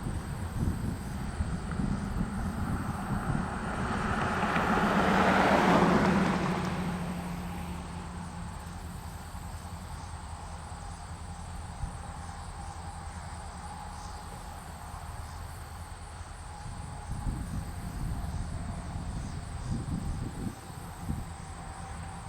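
Low, steady rumble of diesel locomotives working a rail interchange, with a passing vehicle that swells up and fades away about four to eight seconds in.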